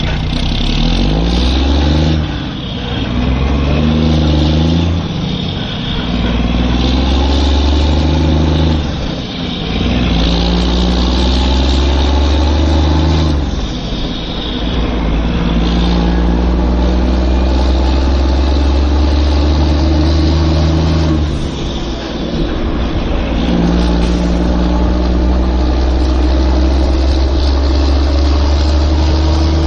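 Heavy-vehicle engine sound running and revving in long stretches, easing off briefly every several seconds.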